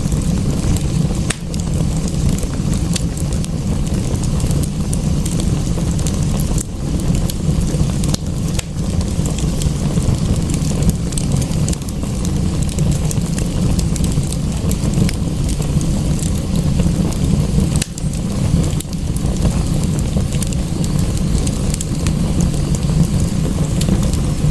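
Crackling wood fire, sharp irregular pops and snaps over a steady low rumble and hiss of rain.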